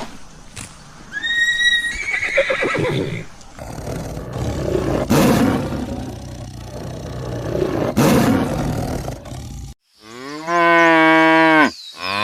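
Horse whinnying briefly near the start, with further horse sounds. Then, about ten seconds in, a cow mooing in one long, steady, loud call.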